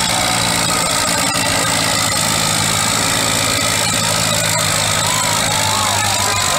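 Antique farm tractor engine running steadily, pulling the weight sled; its low, even note drops off about five and a half seconds in.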